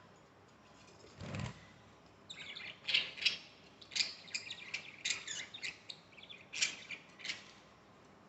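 Budgie chirping in a rapid series of short, high chirps lasting about five seconds, after a soft low thump or rustle about a second in.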